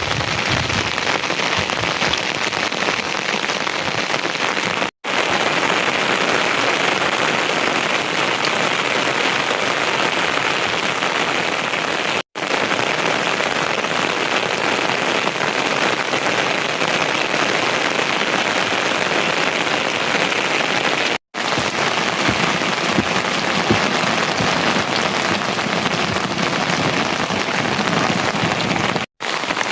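Steady heavy rain falling, an even hiss, cut off by four brief moments of silence.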